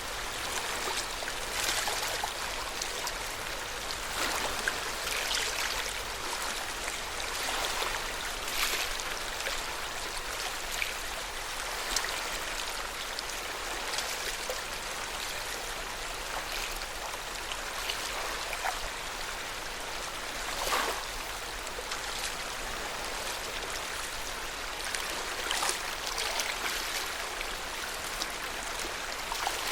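Lake water lapping at the shore of Lake Yamanaka: a steady rush of small waves, with irregular little splashes every second or two.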